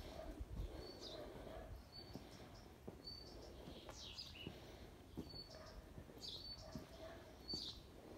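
Birds chirping outdoors, a short high note repeated about once a second with a few sweeping calls between, over faint outdoor background noise and soft footsteps on pavement.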